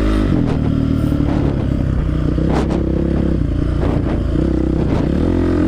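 Dirt bike engine running steadily while riding over a rough trail, with scattered knocks and scrapes from the bike and the terrain.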